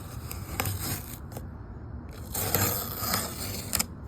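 Masking tape being picked at with fingernails and peeled off a spray-painted car body: a few sharp clicks, then a tearing sound lasting about a second a little past halfway.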